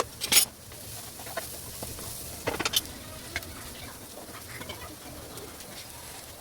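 Pigeons cooing steadily in the background, with a few sharp clicks and knocks over it: one at the start, one about half a second in, a small cluster near the middle, and one more shortly after.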